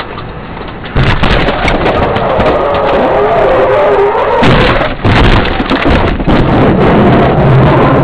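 Loud, distorted road-vehicle noise that starts suddenly about a second in, with a wavering, sliding tone for a second or two in the middle.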